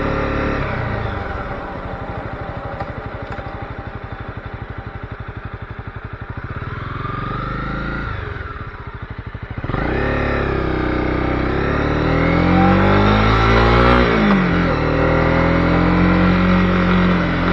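Honda CB250R single-cylinder engine on the move: for the first nine seconds or so it runs at low revs with an even pulsing, then about ten seconds in the throttle opens and the revs climb, drop back a little about fourteen seconds in, and hold steady near the end.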